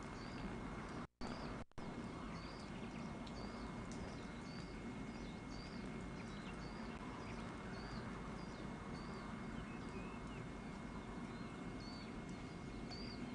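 A bird calling a short chirp over and over, about three every two seconds, above a steady low rumble of wind or recorder noise. The recording cuts out twice, briefly, about a second in.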